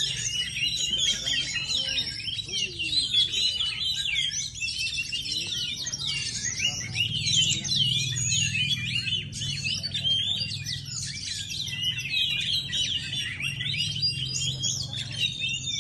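Oriental magpie-robin (kacer) singing a fast, unbroken stream of varied whistles and chirps, over a steady low hum.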